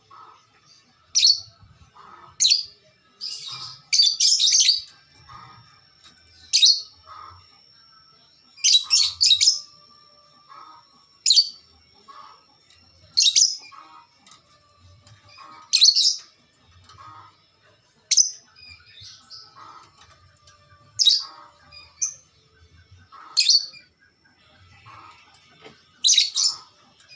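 Kept songbird calling 'gacor', giving short, loud, sharp high-pitched chirps repeated about every two seconds, each followed by fainter lower notes.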